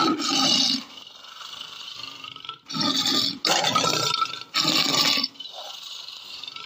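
Lion roaring: four harsh roars, one at the start and three in quick succession from about three seconds in.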